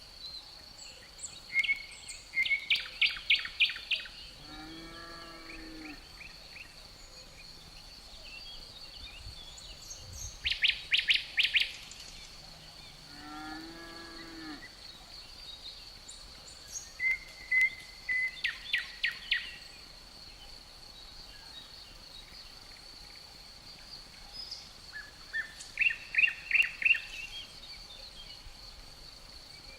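A songbird repeating a short, rapid phrase about every eight seconds over the steady, high drone of crickets. Twice, between the phrases, a low drawn-out call is heard.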